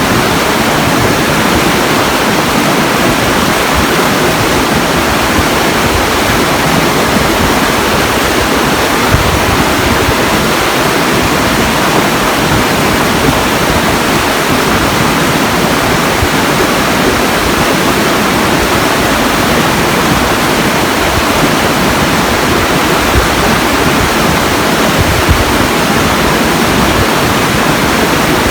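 Rushing water, a waterfall or fast stream, running in a steady, unbroken roar.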